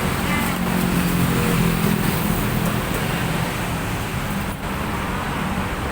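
Steady road-traffic noise with a low engine hum and faint voices in the background.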